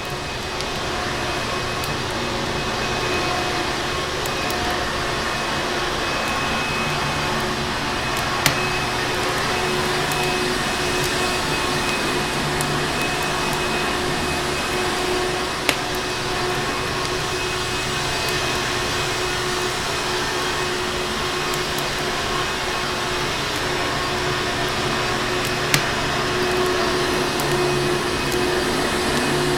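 Vacuum cleaner motor running steadily with a constant whirring hum. Three sharp pops from a crackling fireplace are heard over it, a few seconds apart.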